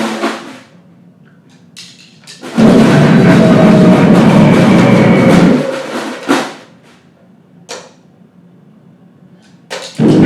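Live noise-grind band with drums: dense, distorted blasts that stop abruptly. A loud burst of about three seconds comes a few seconds in, and another starts near the end. Between them, lower-level gaps carry a few isolated sharp hits.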